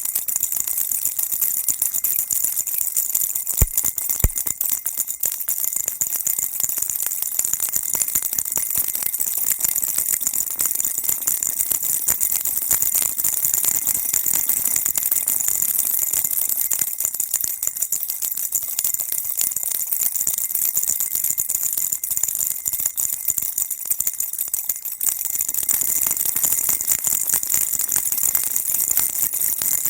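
Baby rattle shaken continuously: a dense, high-pitched jingling rattle with no pause. It is punctuated by two sharper knocks about four seconds in.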